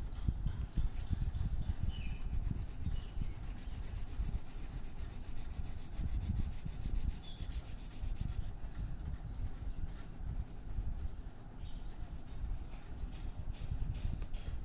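Colouring strokes rubbing across paper, a rhythmic scratching of about two strokes a second over a low rumble.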